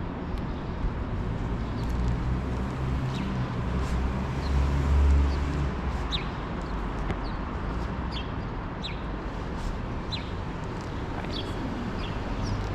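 A vehicle passes with a low hum that swells to its loudest about five seconds in, over steady city background noise. Small birds chirp repeatedly in short, high, falling notes.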